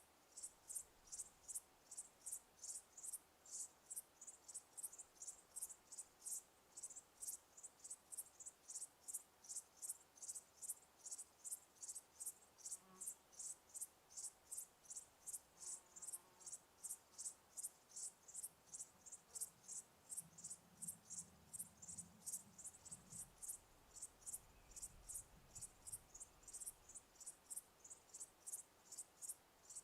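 A cricket chirping steadily, high-pitched and even, about three chirps a second. A faint low hum comes in briefly about two-thirds of the way through.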